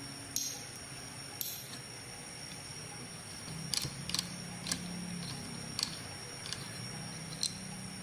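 Light metal clicks and clinks at irregular intervals, about eight of them, as tools and small metal parts are handled during motorcycle repair work, over a steady background hum.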